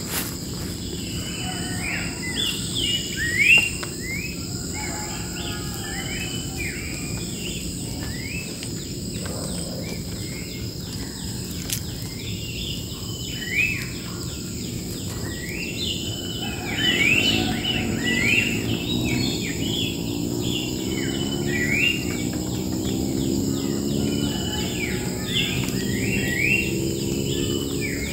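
Wild birds singing in a bamboo clump, short rising phrases repeated over and over, over a steady high insect drone. From a little past halfway a low hum comes in and slowly rises in pitch.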